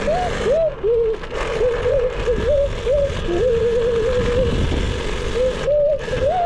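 Small KTM dirt bike engine running with repeated quick throttle blips, its pitch jumping up and settling back again and again, over a steady rush of wind and road noise.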